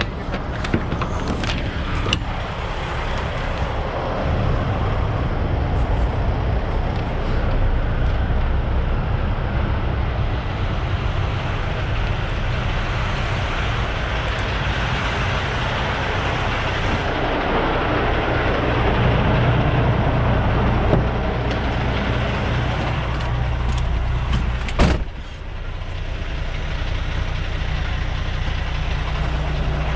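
Semi truck's diesel engine running, heard from the cab, with a few short clicks near the start. A sharp knock comes near the end, after which the engine settles into a steady idle.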